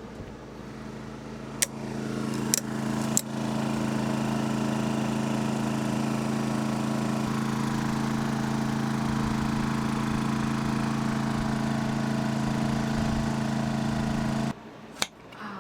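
A motor running with a steady hum that builds up over the first few seconds, holds even, then cuts off abruptly near the end. Three sharp clicks come early on as it starts up.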